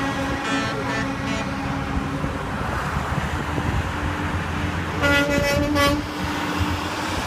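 Semi-truck air horns honking over the steady noise of passing truck engines and tyres. One horn fades out within the first second or so, and a louder horn blast comes about five seconds in.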